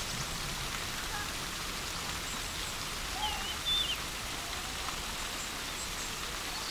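A few short bird chirps over a steady background hiss, with the clearest chirps about halfway through.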